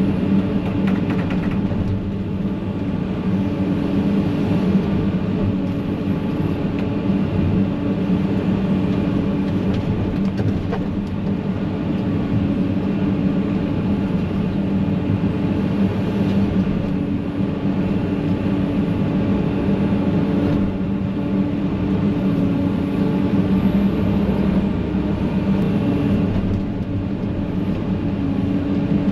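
Excavator's diesel engine running steadily, heard from inside the cab.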